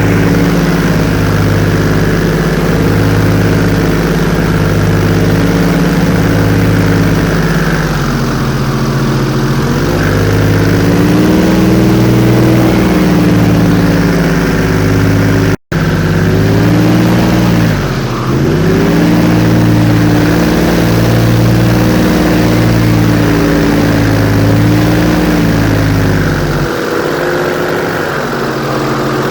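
Airboat's engine and big air propeller running loud and steady, the pitch easing down and climbing again as the throttle changes, with one quick dip and recovery about two-thirds of the way through. The sound cuts out for an instant about halfway.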